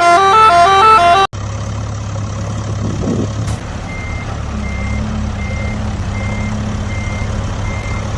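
A short melodic tune of stepping tones, like a musical vehicle horn, cuts off abruptly about a second in. A vehicle engine then runs with a steady low hum. Midway a reversing alarm starts beeping evenly, about three beeps every two seconds.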